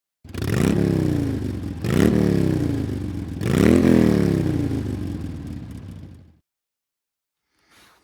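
Single-cylinder engine of a BMW G310GS motorcycle revved three times, each blip rising quickly and then dying away slowly. The sound stops abruptly about six seconds in.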